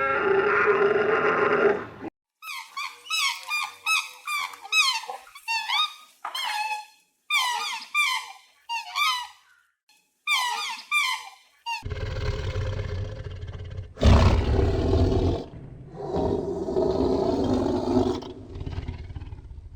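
Animal calls: a held pitched call, then a long run of quick, high squeaks that fall in pitch, then low, rough calls.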